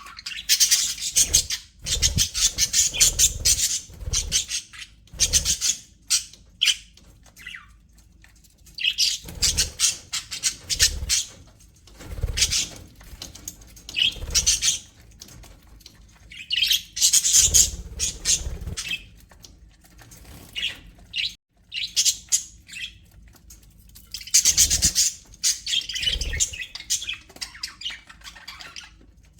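Budgerigars chattering and squawking in rapid, high-pitched bursts of a few seconds each, with short pauses between them.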